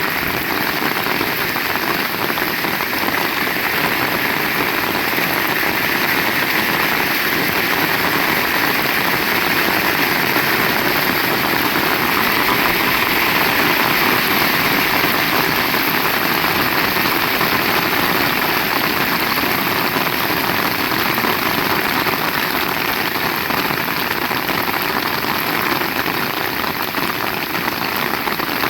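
Heavy rain falling steadily, an even hiss that swells a little in the middle.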